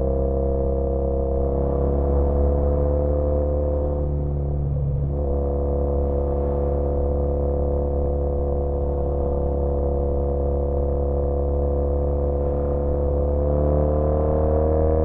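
2013 Triumph Bonneville T100's 865 cc air-cooled parallel twin running through British Customs Sleeper Pro exhausts while riding, a steady exhaust note that dips briefly about five seconds in and again at the end, as the throttle is rolled off and on.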